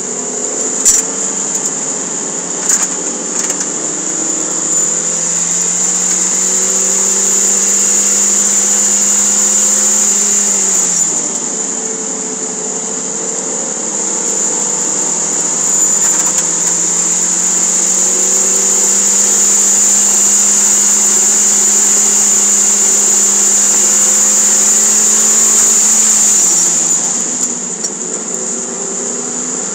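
Toyota MR2 Spyder's 1.8-litre four-cylinder engine heard from inside the cabin, pulling hard on track. Its note climbs with speed, dips about eleven seconds in at an upshift, climbs again, then falls away near the end as the throttle is lifted. Two sharp knocks in the first few seconds and a constant high-pitched whine sit over it.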